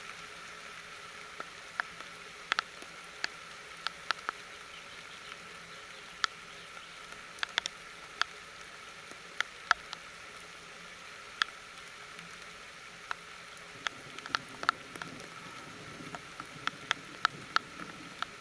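Rain falling on a plant nursery under a shade-net roof: a steady soft hiss with irregular sharp taps of individual drops.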